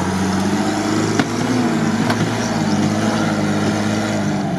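UAZ off-roader's engine pulling hard under load as the jeep claws up a steep dirt gully, its pitch holding fairly steady. Two sharp clicks come about one and two seconds in.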